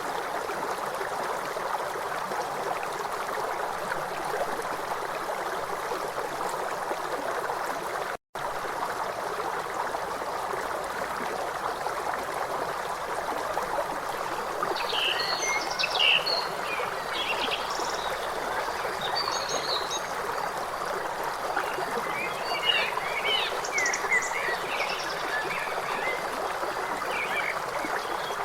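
River water running steadily over stones. About halfway in and again later, high chirping calls of small animals rise over the water. About eight seconds in, the sound cuts out for a moment.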